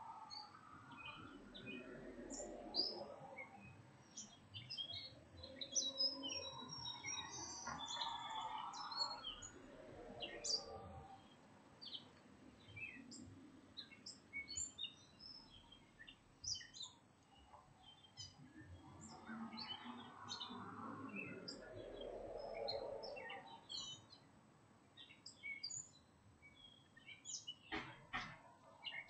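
Small birds chirping in many short, quick calls throughout. Underneath is a low background noise that swells and fades about three times, and there are a few sharp clicks near the end.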